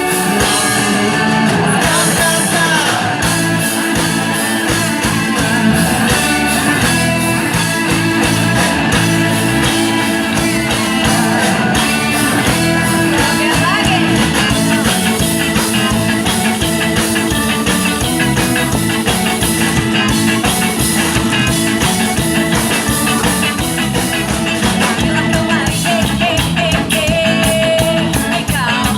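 Ska band playing a song, with singing over guitar and drums.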